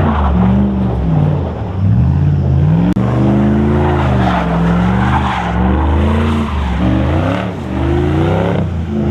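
Dodge Ram 1500's 5.7-litre HEMI V8 being revved repeatedly through a homemade exhaust: a single pipe from the Y-pipe, the factory resonator used as the muffler, then up into twin stacks. The engine pitch climbs and falls about four or five times.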